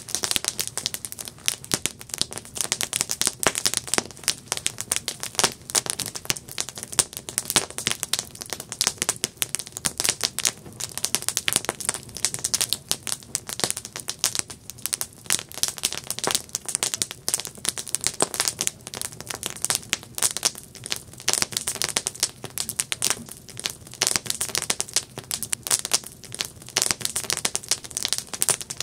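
Campfire crackling: wood burning with dense, irregular pops and snaps.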